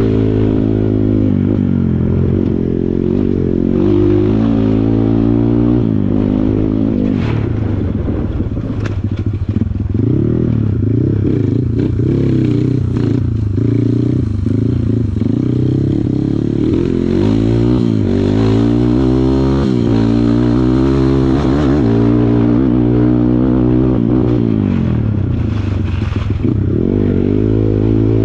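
Kawasaki KLX140 dirt bike's single-cylinder four-stroke engine being ridden, its revs rising and falling again and again as the throttle is worked, with scattered clattering knocks.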